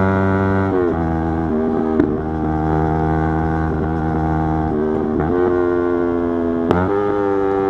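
Yamaha YZF-R3's 321 cc parallel-twin engine running at steady revs on the move. Its pitch drops just under a second in, climbs again about five seconds in, and dips sharply and recovers near the end.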